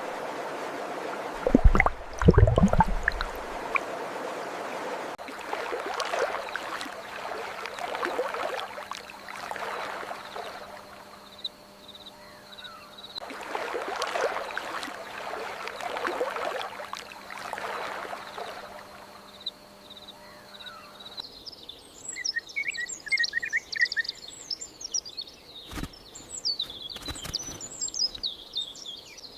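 Outdoor nature ambience: a rushing noise that swells and fades in slow waves, with a loud low thump about two seconds in. In the last third, many songbirds chirp rapidly.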